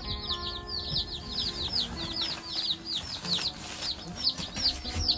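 A crowd of young broiler chicks peeping: many short, high, falling peeps overlapping, several a second.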